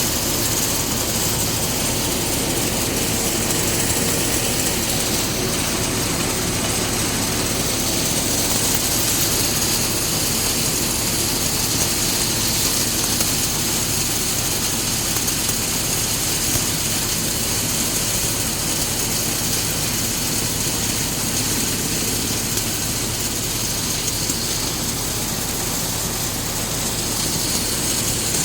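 Eicher tractor's diesel engine running steadily at an even pitch and level.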